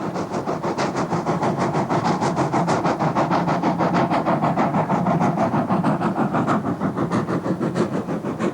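Steam locomotive working hard, its exhaust beats coming fast and even at about six a second, louder through the middle and fading near the end as it passes.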